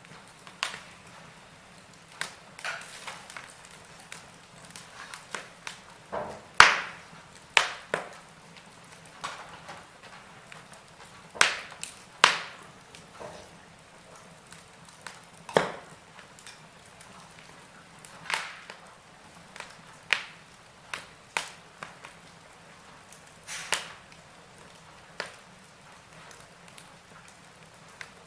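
Wood fire in a fireplace crackling, with irregular sharp pops every second or two over a soft steady hiss; the loudest pop comes about six seconds in.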